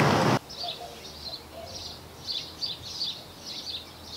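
Small birds chirping repeatedly in short, high calls over a faint outdoor background. A loud rush of noise cuts off abruptly just under half a second in.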